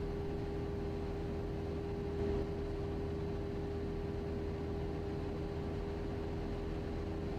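Cessna 172's four-cylinder piston engine and propeller droning steadily in flight, heard inside the cockpit.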